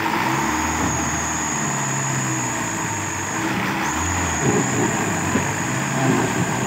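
Truck engine running steadily, with a thin high whine that drops out briefly about halfway through.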